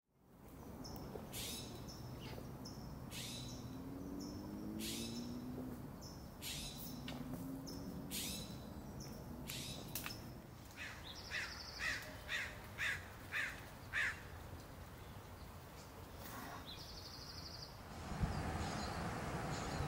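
Wild birds calling: short harsh calls repeated every second or so, then a quicker run of about six louder calls near the middle. The background noise picks up near the end.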